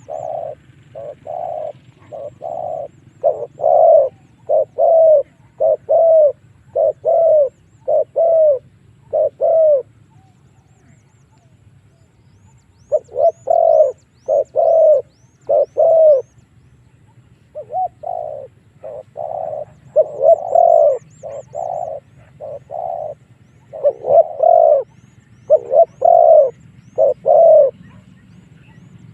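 Spotted dove cooing in runs of short repeated coo notes, with a gap of about three seconds near the middle: a decoy dove's call used to lure wild doves. Faint high chirps from small birds come now and then.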